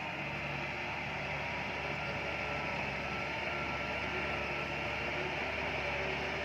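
Bulldozer's diesel engine running steadily, a constant mechanical drone with faint steady whining tones over it.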